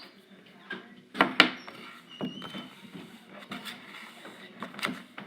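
Putty knife chopping and scraping kinetic sand against a container: two sharp knocks about a second in, then lighter taps and scrapes.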